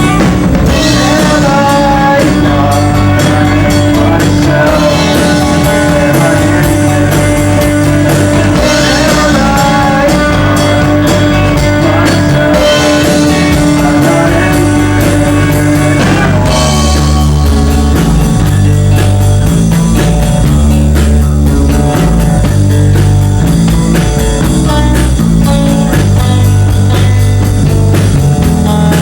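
Live rock band playing a song: electric guitar, bass and drum kit. A long held note stops just past halfway through and the song moves into a new section.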